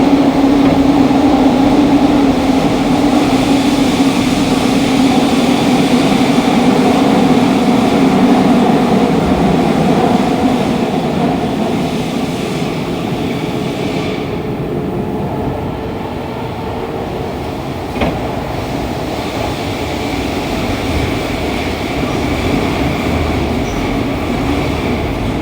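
Fukuoka City Subway 2000 series train with Hitachi GTO-VVVF inverter running in a tunnel, heard from the car floor: a steady running drone with a strong low hum that fades away about ten seconds in as the train eases off. A single sharp click sounds about eighteen seconds in, and a higher inverter tone comes back near the end.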